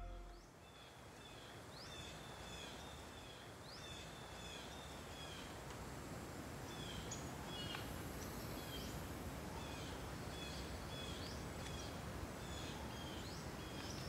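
Forest ambience: birds calling over and over in short, high chirping phrases, each with a quick rising note, over a steady low hiss. A faint high buzz joins briefly about eight seconds in.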